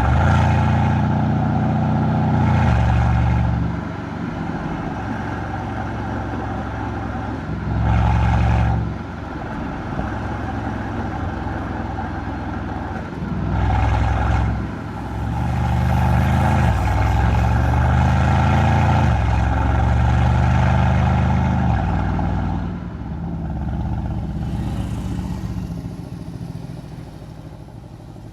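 Mercedes-AMG C63's M177 twin-turbo V8 exhaust under hard acceleration: the engine note climbs in several pulls, dropping briefly between them as the gears change. It settles to a quieter steady run for the last few seconds.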